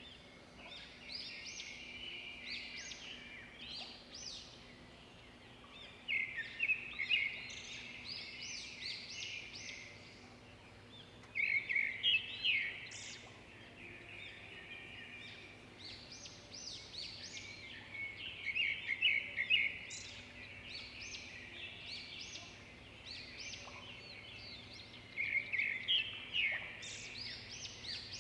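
Wild birds singing: a loud song phrase comes back about every six to seven seconds, each one opening with a few strong notes and running on into several seconds of quick, high chirps, with softer chirping between phrases.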